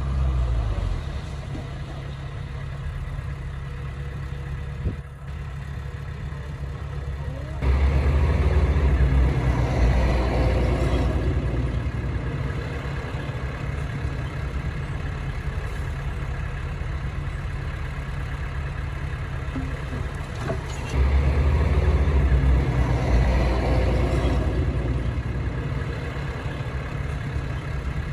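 Heavy diesel engine of earthmoving machinery running steadily, with two surges where it works harder: one about a third of the way in and one about three quarters of the way in.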